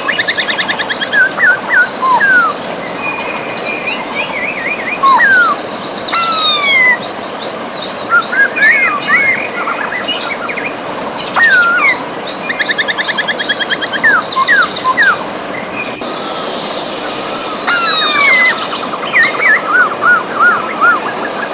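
Several birds singing and calling over the steady rush of a river: sliding whistled notes, quick chirps and fast rattling trills, one after another.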